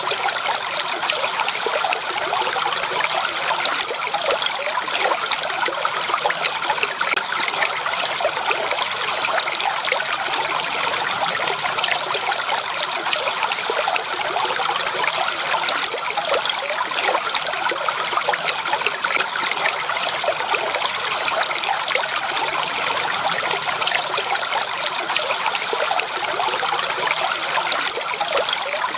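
Running water trickling and babbling steadily, like a small stream flowing over stones.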